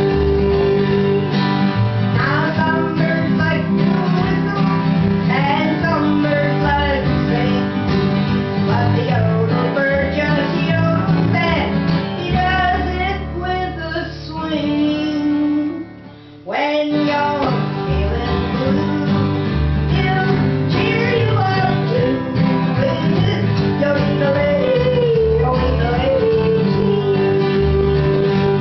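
Traditional country band playing live: acoustic guitar strumming with a woman singing. The music thins out and almost stops for a moment about halfway, then picks up again.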